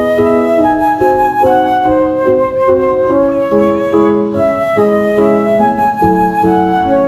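Background music: a gentle instrumental with a flute-like melody over sustained keyboard notes.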